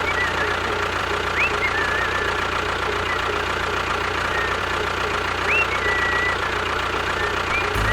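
An engine running steadily with an even hum, with short chirping whistles over it a few times.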